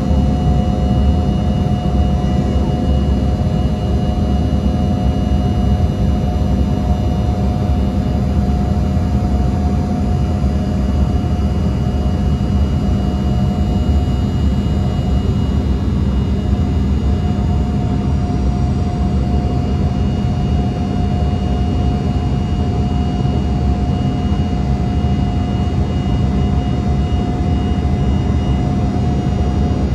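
Embraer 170's GE CF34 turbofan jet engines running steadily: a constant low rumble with a steady whine over it.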